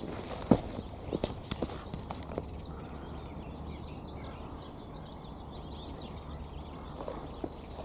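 Footsteps on the ground for the first couple of seconds, then a small bird calling a few short, high chirps that drop slightly in pitch, spaced about a second or more apart.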